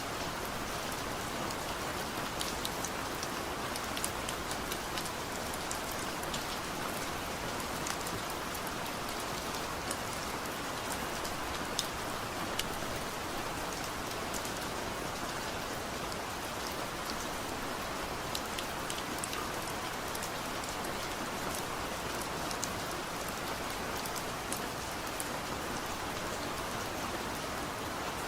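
Heavy rain falling steadily, an even hiss with scattered individual drops ticking on a surface.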